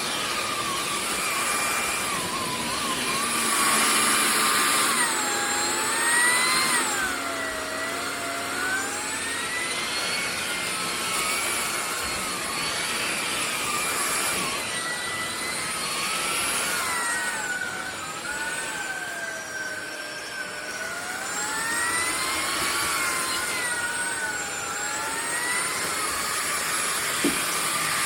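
Fieety cordless stick vacuum's motor running with a steady high whine over the rush of air, its pitch sliding down and back up several times as the load on the motor changes.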